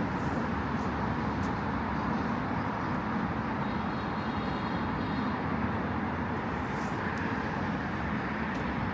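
Steady city road traffic: a continuous rush of passing cars' tyres and engines.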